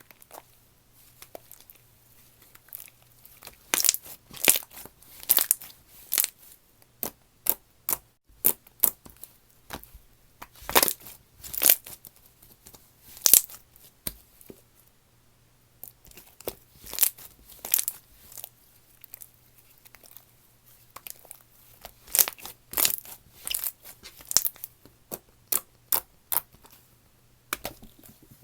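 Slime being squeezed, poked and stretched by hand, giving irregular sticky pops and crackling clicks in clusters, with a few brief pauses.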